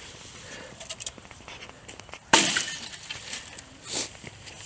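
Cut tree branches dropped onto a pile: a sudden crash of snapping twigs and leaves about two seconds in, then smaller crackles and a brief rustle near the end.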